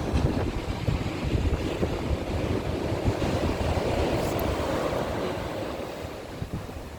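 Sea waves breaking and washing up a beach, the surf building through the middle and easing off near the end, with wind buffeting the microphone.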